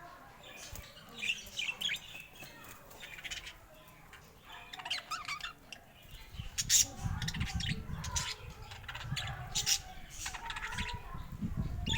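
Pet parakeets chirping and squawking in short, irregular calls, with a low rumble underneath from about halfway through.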